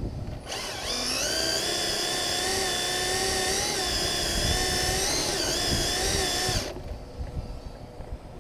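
Electric motor whine of a Team Associated DR10 Pro radio-controlled drag car making a test pass. It is high-pitched and starts about half a second in, rises a little, holds nearly steady with slight wavers, and cuts off abruptly near the end.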